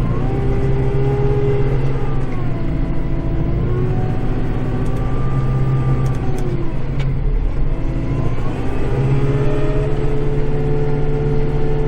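Kubota tractor's diesel engine running under load with the snow blower engaged, heard from inside the cab. A whine rides over the engine and drops in pitch twice as the blower bites into heavy snow, then climbs back and holds steady near the end.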